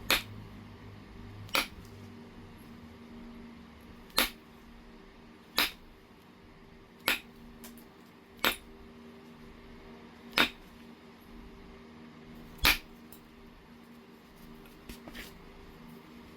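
Oregon jasper being knapped: eight sharp clicks as flakes are struck or pressed off the stone, one every one and a half to two seconds, over a faint steady hum.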